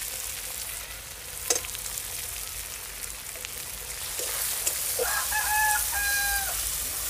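Chopped tomatoes and onions sizzling steadily in hot oil in a metal kadai, stirred with a steel ladle, with one sharp knock about a second and a half in. A rooster crows once about five seconds in, held for about a second and a half.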